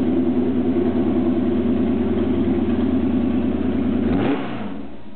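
Porsche 904 GTS's flat-four racing engine running steadily, then switched off about four seconds in, its pitch falling quickly as it winds down and stops.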